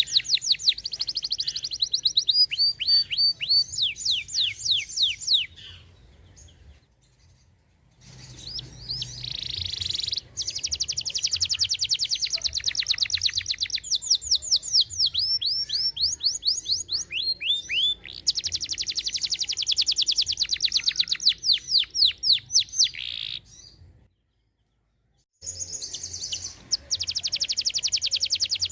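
Domestic canary singing long, loud phrases of fast trills, rapid repeated notes and quick downward-sweeping chirps. The song breaks off twice: once for a short lull around six seconds in, and again for a second of silence near the end.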